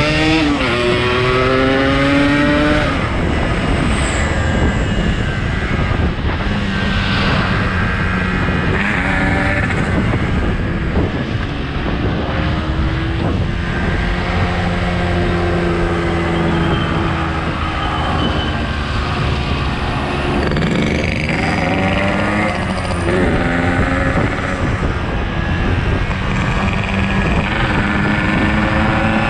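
Yamaha RX-King 135's single-cylinder two-stroke engine running as the motorcycle is ridden, over a steady rushing noise. The revs climb over the first few seconds, settle through the middle, and climb again near the end.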